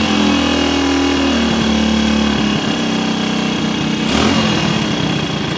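1964 Honda C200's small single-cylinder four-stroke engine running at a fast idle, its speed dropping in two steps, with a short rush of noise about four seconds in. It is running after an idle-circuit adjustment: the owner suspects the idle needle had not been set right.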